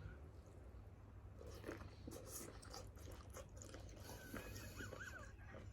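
Faint chewing and biting sounds of people eating grilled seafood, with scattered small clicks.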